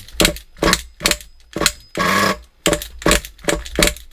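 Glow-fuel .21 nitro engine of an RC buggy being cranked over again and again, about two short clacking strokes a second, with a brief louder sputter about halfway through as it tries to fire but does not yet catch.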